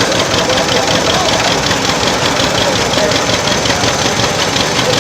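Old tractor engine running steadily with a fast, even knocking beat.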